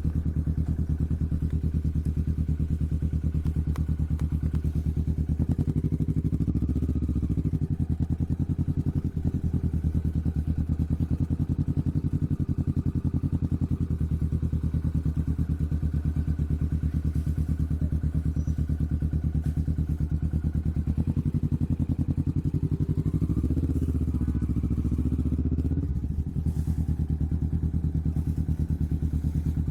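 Kawasaki Vulcan S parallel-twin engine running through a Hoonk aftermarket twin exhaust while the bike is ridden: a steady low exhaust note whose pitch rises and falls twice, about six seconds in and again a little past twenty seconds.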